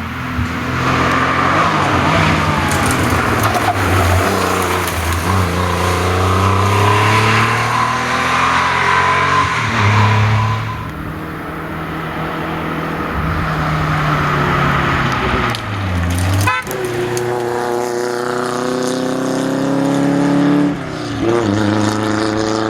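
Historic rally car engines at high revs, pitch climbing and dropping again and again through gear changes as the cars drive past. A sharp crack comes about sixteen and a half seconds in, followed by an engine pulling up through the revs.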